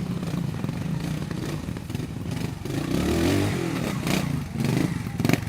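Trials motorcycle engine running at a steady note, then revved up and down in quick blips from about halfway through. A couple of sharp knocks come near the end.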